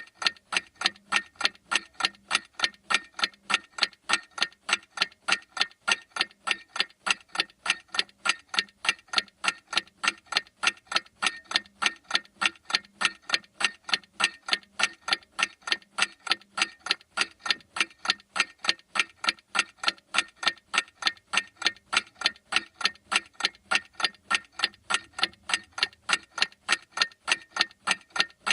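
A clock ticking steadily: even, sharp ticks, several a second, with no change in pace.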